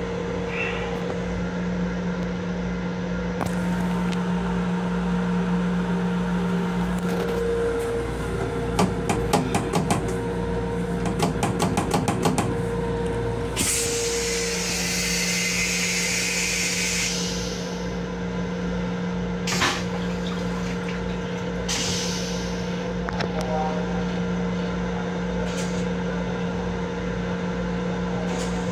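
Steady hum and rumble of an M7 electric railcar heard inside its small restroom, with a run of rapid rattling clicks in the middle followed by a hiss lasting a few seconds, and a few shorter hisses and knocks later.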